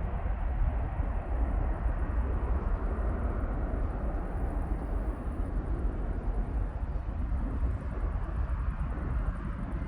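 Steady rumbling roar of a Boeing 767's jet engines, with heavy low wind rumble on the microphone.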